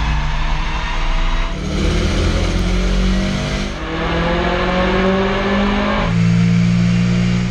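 Short clips of Subaru flat-four engines at full throttle, heard from inside the car, each rising in pitch as it revs. The sound changes abruptly with each new clip, about every two seconds.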